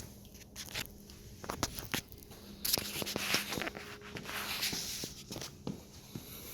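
Handling noises: scattered clicks and knocks, with a stretch of rustling and scraping in the middle, over a faint steady hum.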